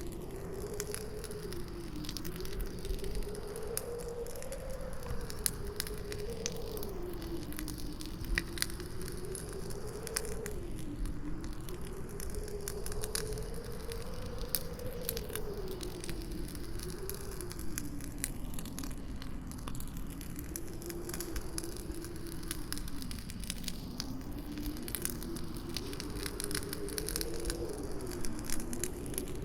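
Campfire crackling with frequent sharp pops, over a howling wind whose moaning pitch slowly rises and falls.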